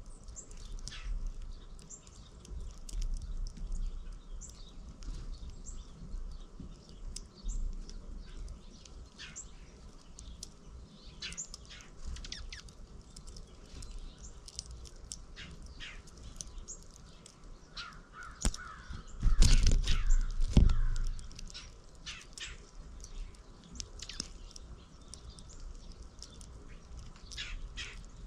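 Backyard birds chirping, with short high calls throughout and a run of harsher calls a little past the middle. A loud low thump sounds at the same point.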